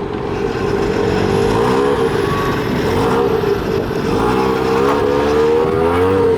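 Mazda RX-7's 13B rotary engine pulling away, its pitch rising about a second in, dropping back around the second mark, then rising again over the last two seconds as it accelerates through the gears.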